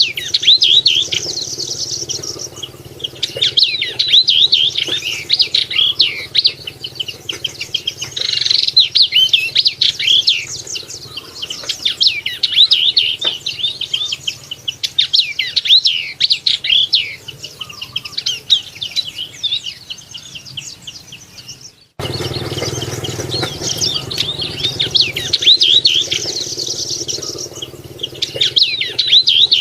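Yellow-eyed babbler singing: a fast, continuous run of high chirps and twittering notes that slide in pitch. About two-thirds of the way through it breaks off for an instant and resumes over a faint low hum.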